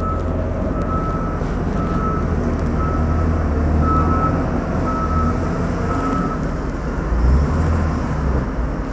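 Street traffic rumbling, with a vehicle's reversing alarm beeping about once a second, stopping about six seconds in.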